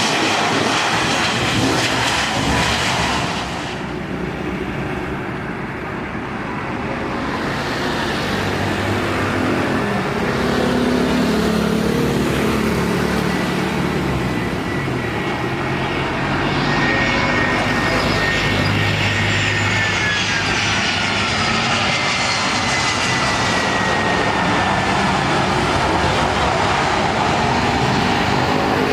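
Jet airliner on landing approach passing by: a steady engine roar, with a high whine that falls in pitch about two-thirds of the way through as the aircraft goes past.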